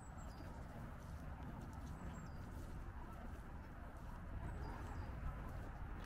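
A small bird repeating a short, high call that drops from a higher note to a lower one, about every two seconds, over a steady low background noise.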